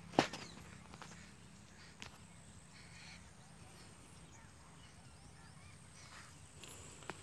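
Faint bird calls, short scattered chirps, over a quiet outdoor background, with one sharp tap just after the start and a few fainter ticks later.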